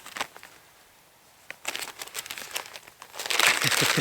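Plastic being handled, crinkling and rustling: a couple of soft clicks, a short lull, then crinkling from about one and a half seconds in that grows much louder near the end.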